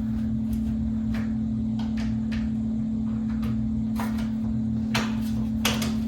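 Scattered light clicks and knocks from plastic box-fan housing parts being handled and fitted, over a steady low hum.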